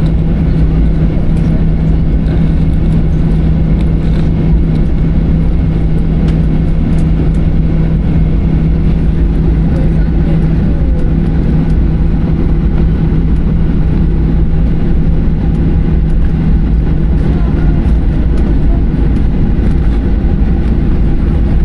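Cabin noise of a Boeing 737-800 taxiing after landing: a loud, steady low rumble with a constant hum from the engines at idle.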